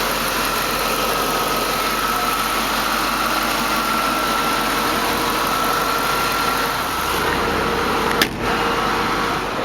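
Ford 4.6-litre V8 idling steadily with the hood open, with a faint steady whine over the engine noise and one sharp click about eight seconds in.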